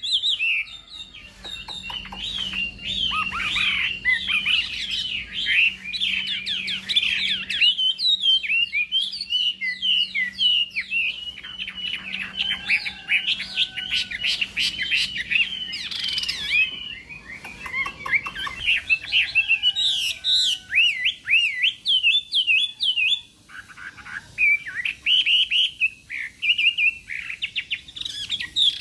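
Chinese hwamei singing a long, rapid run of varied whistled phrases full of quick up-and-down sweeps, with a few short breaks.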